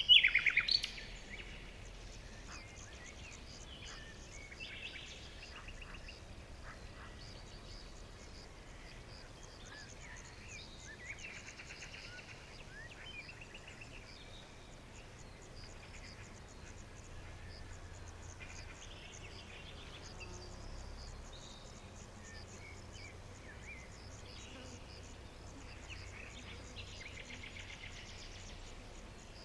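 Forest ambience: a loud bird call in the first second, then a steady background of insects chirping with faint buzzy bird trills every few seconds.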